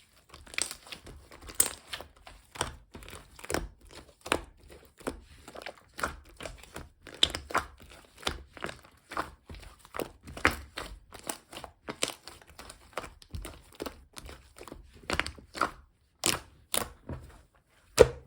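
Mixed slime being squished and poked by hand, making irregular crackling clicks and pops, two or three a second, with a few louder pops near the end.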